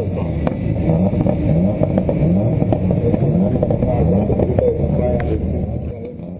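Several rally-prepared race car engines revving on a dirt start grid: a steady low drone with the engine note blipped upward again and again in short rising revs.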